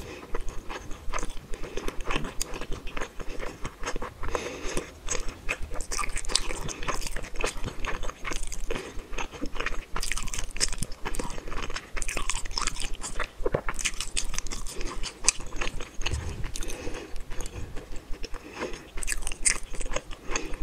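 Close-miked chewing of spicy tteokbokki, a steady run of short mouth clicks.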